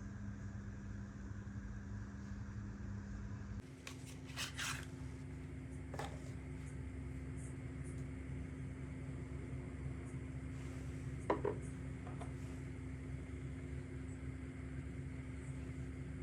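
A steady low mechanical hum, its tone shifting abruptly about three and a half seconds in, with a few light clicks and knocks over it.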